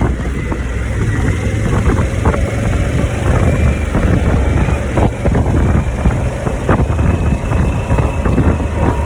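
Harley-Davidson V-twin motorcycle engine running steadily while being ridden.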